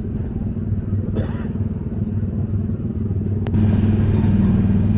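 Small engine of a ride car running with the accelerator floored: a steady low throb of rapid firing pulses. A sharp click comes about three and a half seconds in, and after it the engine runs a little louder.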